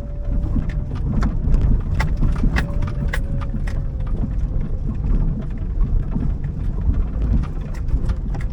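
A car driving along a road littered with fallen branches and twigs: irregular sharp cracks and snaps, several a second, over a steady low rumble of road noise and strong wind.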